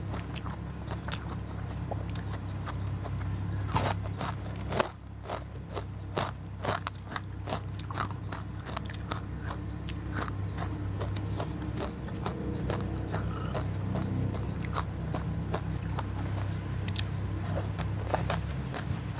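Close-up eating sounds: crisp fried shrimp being bitten and chewed, with many sharp crunches and crackles throughout, over a low steady hum.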